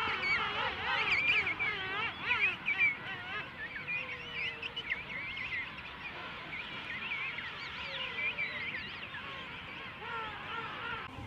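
Many king penguins calling at once across the colony: a dense chorus of overlapping warbling, whistling calls, busiest in the first few seconds.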